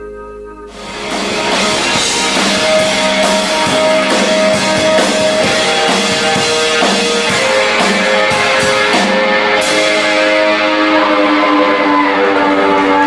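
Rock trio of electric guitar, bass and drum kit playing an instrumental passage, without vocals. A fading held chord gives way under a second in to the full band coming in loud, with cymbal crashes over sustained guitar notes.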